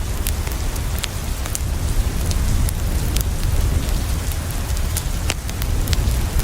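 Steady rain falling on a window, with a deep low rumble under it and scattered sharp pops and crackles from a wood fire throughout.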